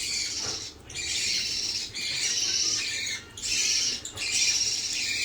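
Budgerigar chick giving raspy, high-pitched begging calls while being spoon-fed, in several harsh stretches of about a second each with short breaks between.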